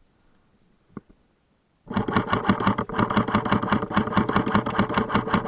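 Airsoft rifle firing a long full-auto burst: a rapid, even clatter of shots over the whirr of the gun's mechanism, starting about two seconds in. A single sharp click comes about a second in.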